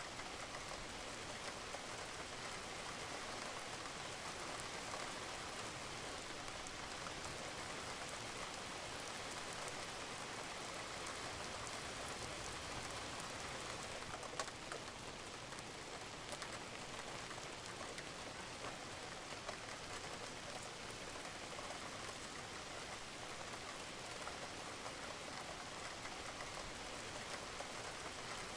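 Steady rain falling on a roof, a dense even patter with scattered sharper drips, one a little louder about halfway through.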